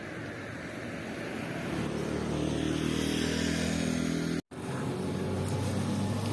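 A steady low engine-like hum, as of a motor vehicle running, growing gradually louder, with a brief dropout about four and a half seconds in.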